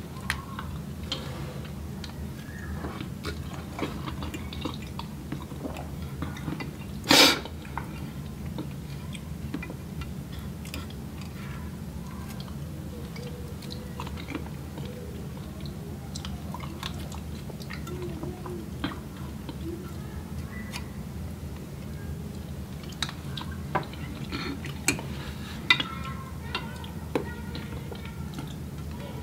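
Close-miked eating: chewing and mouth sounds, with scattered small clicks as a plastic fork picks at food in a glass baking dish, over a steady low hum. One loud, sharp sound stands out about seven seconds in, and clicks come more often near the end.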